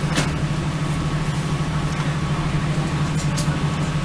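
Steady low drone of a Northern Ireland Railways diesel train's engine, heard from inside the carriage, with a couple of light clicks.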